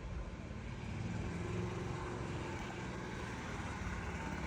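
An engine running steadily nearby: a continuous low drone with a faint hum.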